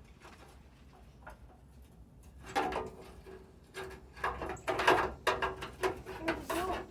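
Cordless impact driver running in several short bursts, starting about two and a half seconds in after a quiet start.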